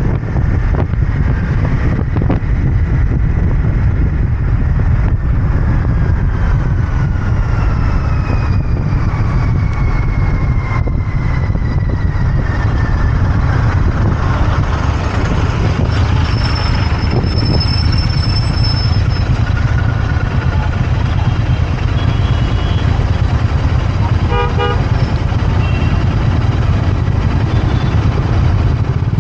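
Royal Enfield Interceptor 650's parallel-twin engine running steadily on the move, in road traffic. A vehicle horn honks briefly late on.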